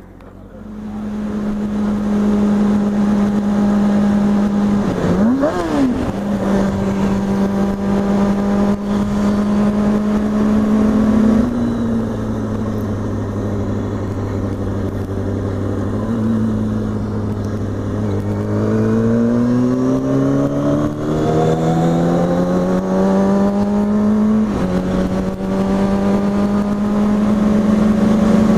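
A 2003 Kawasaki ZX-6R 636's inline-four engine running as the bike is ridden, swelling up in the first second or two. Its pitch dips and jumps back quickly about five seconds in, then climbs slowly as the bike accelerates, and drops suddenly near the end as it shifts up.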